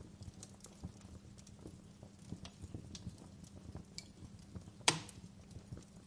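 Wood fire in a fireplace crackling: irregular small snaps and ticks, with one loud sharp pop about five seconds in.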